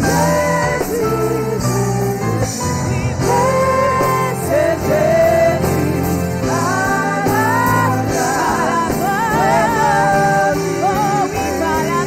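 Gospel worship music: a voice singing held, wavering notes with vibrato over sustained accompaniment chords.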